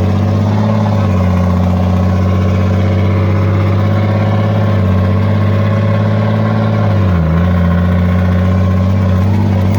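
14-liter Cummins inline-six diesel of an M923 5-ton military truck running loud and steady while the truck is driven, heard from inside the cab. The engine note dips briefly about seven seconds in, then comes back up.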